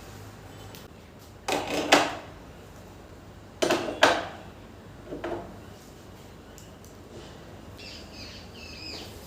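Kitchen things being handled: two short bursts of clatter about two seconds apart, each ending in a sharper knock, then a softer knock, with faint chirps near the end.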